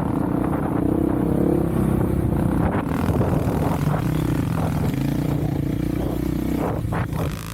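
Off-road vehicle engine running at steady revs while riding, its pitch rising and dipping a little with the throttle, with a few clattering knocks.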